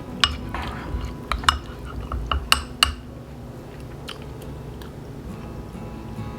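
Someone eating: several sharp clinks of a utensil against a dish in the first three seconds, with chewing, over soft background music.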